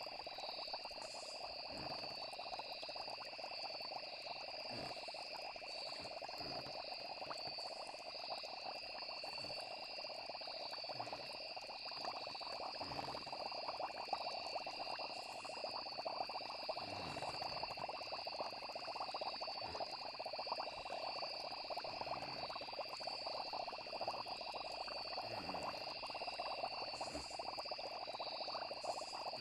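Night nature ambience: a chorus of frogs over a steady, high insect trill. Low croaks come every few seconds.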